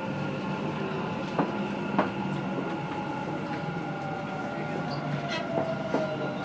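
Dubai Metro train running, heard from inside the carriage: a steady rumble and electric motor whine with a few sharp clicks from the wheels on the track. Near the end one whine tone falls in pitch.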